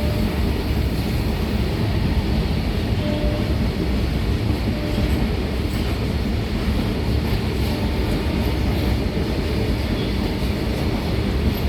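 Freight wagons of a goods train rolling past in a steady, continuous rumble and rattle of wheels on track. Two faint, brief wheel squeals come about three and five seconds in.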